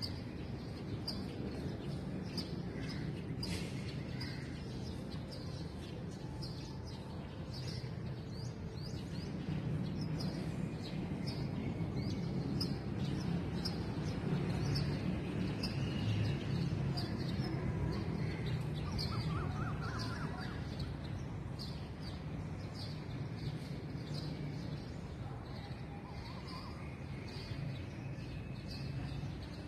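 Birds chirping outdoors: a short high chirp repeats about once or twice a second throughout, with a few fainter whistled notes, over a steady low rumble.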